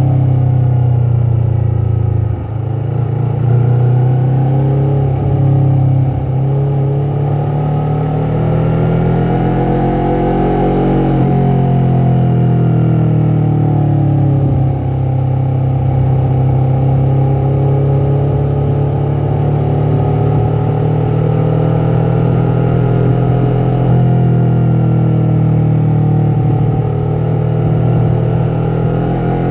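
Yamaha MT-03's parallel-twin engine and exhaust running under way, the engine note rising and falling as the throttle opens and closes.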